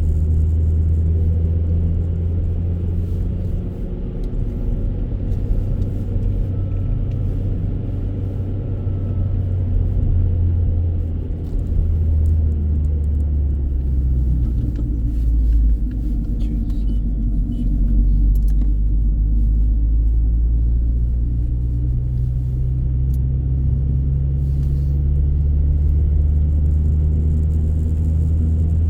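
Low, steady rumble of a car driving, engine and road noise, swelling and easing slightly.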